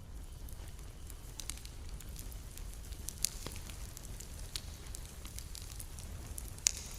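Campfire crackling, with irregular sharp pops over a steady low rumble. The loudest pop comes about three seconds in, and another comes near the end.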